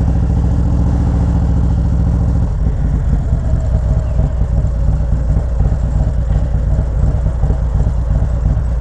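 Motorcycle engine running steadily. About two and a half seconds in, its even pulse gives way to a rougher, less regular sound.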